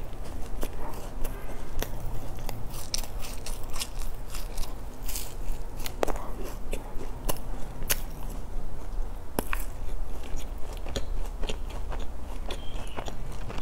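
A person chewing a soft filled bread bun close to a clip-on microphone: irregular sharp mouth clicks and smacks, several a second, over a low steady hum.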